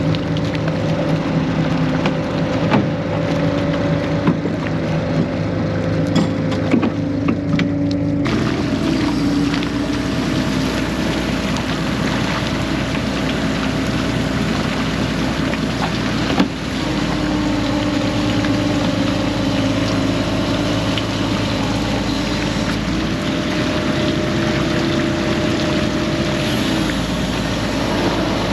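Fishing boat's engine running steadily under way. About eight seconds in, its note shifts and a loud rush of water and wind noise comes in and continues.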